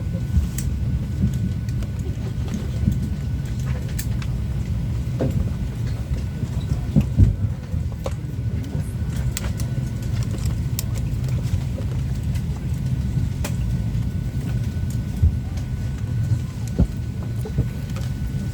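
Steady low cabin rumble of a Boeing 737-800 parked at the gate, with a faint steady whine and scattered clicks and knocks.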